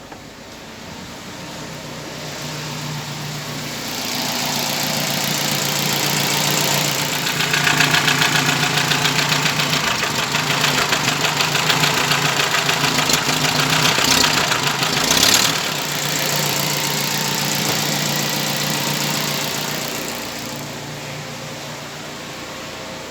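UMZ-4216 inline four-cylinder petrol engine idling evenly at operating temperature, with no knock now that its camshaft gear has been replaced. It grows louder over the first several seconds and eases off near the end, with one short, louder noise about fifteen seconds in.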